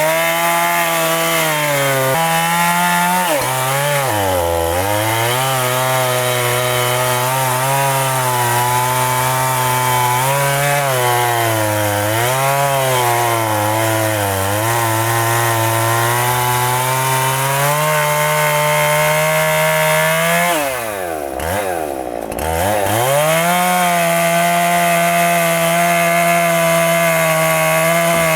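Two-stroke chainsaw cutting through a very large tree trunk, its engine pitch repeatedly sagging and recovering as it bogs under the load of the cut. About two-thirds of the way through, the engine drops sharply toward idle, then revs back up and holds at full speed.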